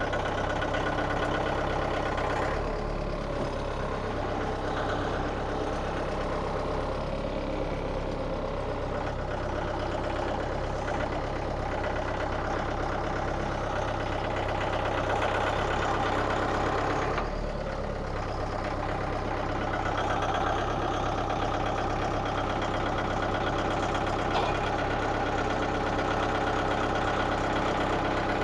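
Engine of a Frontier OS27 portable sawmill running steadily, with a brief change about two seconds in and another about halfway through.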